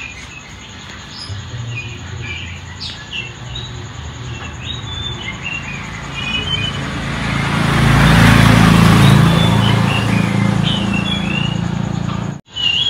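A bird chirping in short, irregular calls. Under it, a vehicle engine hum and road noise swell as it passes, loudest about eight seconds in, before the sound cuts off abruptly near the end.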